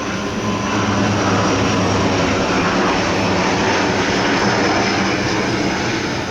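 ATR 72 turboprop engines and propellers running steadily, a loud low drone with several steady pitches.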